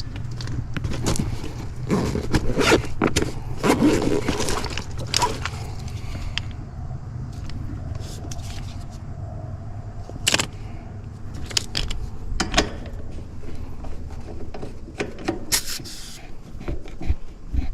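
Metal clicks, scrapes and rattles of refrigerant gauge hoses and couplers being handled and fitted onto an air conditioner's service ports, thickest in the first few seconds, over a steady low hum.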